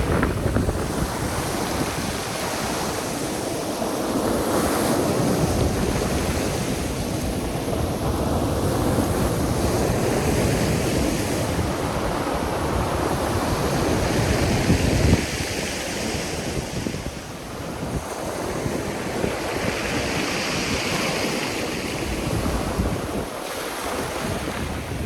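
Black Sea waves breaking and washing onto the shore, swelling and ebbing every few seconds, with wind buffeting the microphone.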